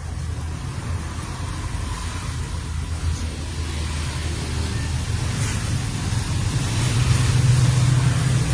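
Low, steady rumble of a motor vehicle engine, growing louder toward the end.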